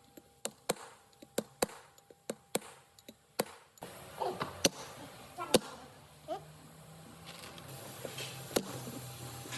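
A series of sharp taps and knocks: about ten at irregular spacing in the first four seconds, then a few louder ones spread out over a faint low hum.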